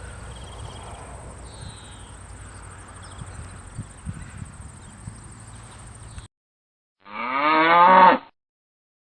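Low outdoor background noise with a few faint chirps, then an abrupt cut to silence. A farm animal then gives one loud, pitched call of about a second that rises and then falls in pitch.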